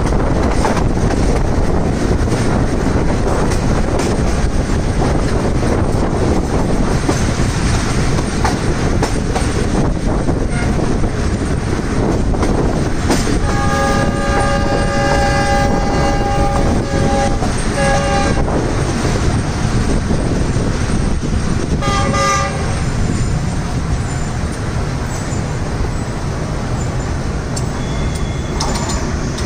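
Steady rumble and rushing wind of a moving passenger train. About halfway through, a diesel locomotive horn sounds a long chord for about four seconds, then a brief blast and, a few seconds later, a short one, as an oncoming locomotive nears on the next track.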